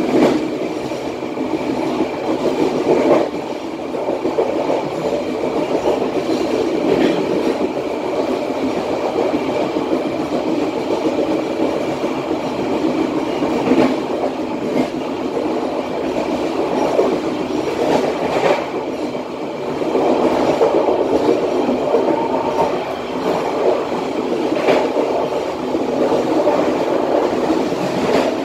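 Passenger train carriage running along the rails at about 60 km/h, heard from the rear end of the train: a steady rumble of wheels on track, with an occasional sharp clack every few seconds.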